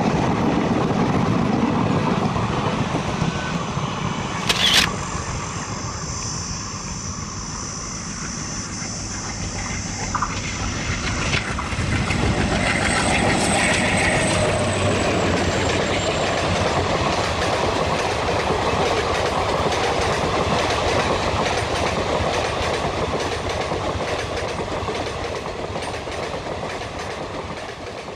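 Indian Railways passenger train coaches rolling past at speed, a steady rumble of wheels running on the rails, with a sharp clank about five seconds in and a faint high-pitched whine for several seconds midway. The noise fades over the last few seconds as the coaches move away.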